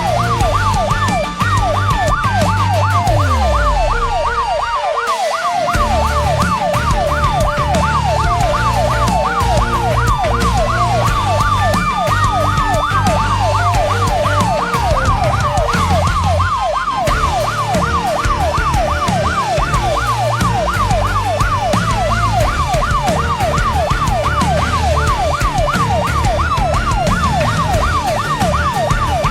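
Emergency vehicle sirens sounding together: one in a fast yelp, about three rises a second, while a second siren wails slowly up and down over it at times. A low engine rumble runs underneath.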